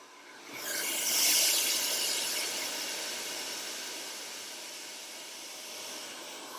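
HSI Professional Dryonizer 2200 hair dryer blowing: a steady rush of air that comes up suddenly about half a second in, is loudest just after, then eases slightly and holds steady.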